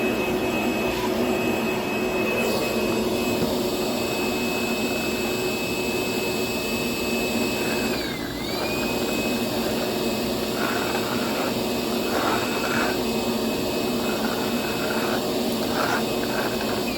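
DeWalt DCV581H cordless wet-dry vacuum running with a steady high motor whine, sucking up sawdust. Its pitch dips and recovers once about eight seconds in. Scattered crackles of debris are drawn into the nozzle in the second half.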